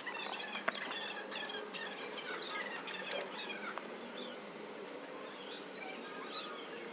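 Small birds chirping and twittering: many short, quick calls, some falling in pitch, over a steady background hiss.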